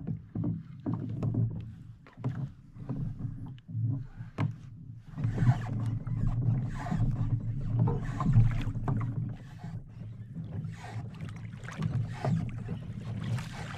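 Water sloshing and lapping against a fishing kayak's hull, with a low rumble and scattered small knocks and clicks from gear on the boat; it swells louder through the middle.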